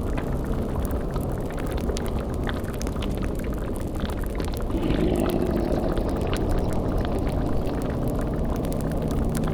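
Spooky ambience mix of a bubbling, boiling cauldron with small crackles over a steady low rumbling drone; a deeper moaning tone swells in about halfway through.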